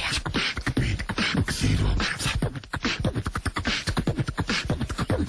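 A voice making rapid, percussive beatbox-like mouth sounds, many clicks and hisses a second over a heavy bass, starting abruptly.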